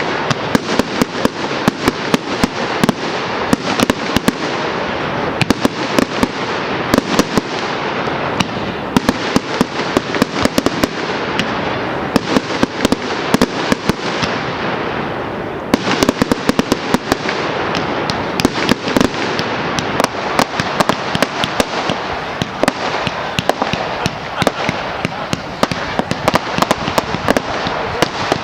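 Fireworks display: a dense, continuous crackle of many rapid bangs and pops, with a fresh volley of sharp cracks about halfway through.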